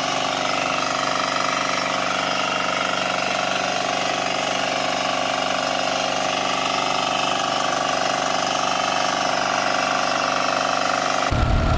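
Small walk-behind tractor engine running steadily at a constant speed. Near the end it cuts abruptly to a louder, deeper engine.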